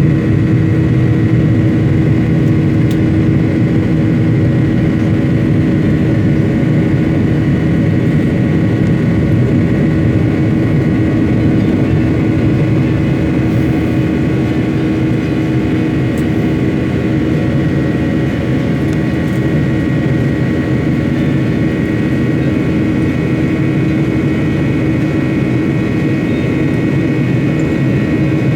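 An airliner's engines running steadily: a constant loud noise with a few steady whining tones held throughout.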